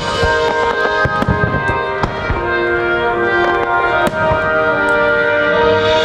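Fireworks show soundtrack music with sustained melodic tones, over which fireworks burst in repeated sharp bangs and pops, the loudest about 1, 2 and 4 seconds in.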